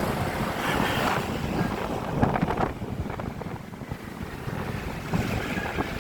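Wind rushing over the microphone of a rider on the back of a moving motorbike, with the bike and traffic running underneath; a louder rush comes a little over two seconds in.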